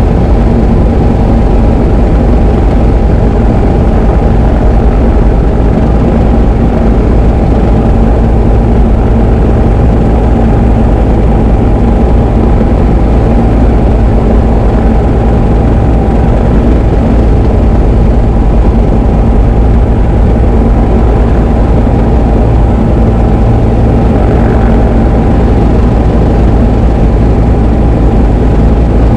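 Diamond DA20 light aircraft's piston engine and propeller running steadily in a loud, even drone.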